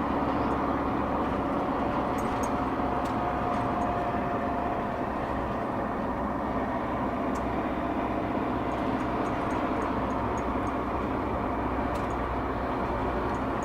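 Steady road and engine noise of a moving car in traffic.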